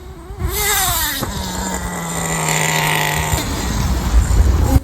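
HPI Bullet 3.0's G3.0 nitro engine revving as the monster truck drives. Its whine climbs sharply about half a second in, holds a steady pitch for about two seconds, then drops away, with a low rumble near the end.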